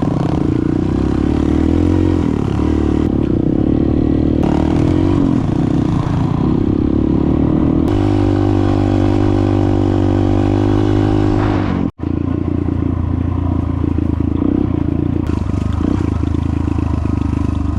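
Dirt bike engine running under way, its revs rising and falling between gear changes and throttle. It cuts out for an instant about twelve seconds in.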